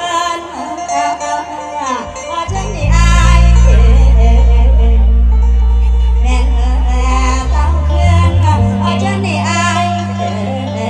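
A woman singing a Thai luk thung song in long, wavering, ornamented lines over band backing. Deep sustained bass notes come in about two and a half seconds in and are the loudest part.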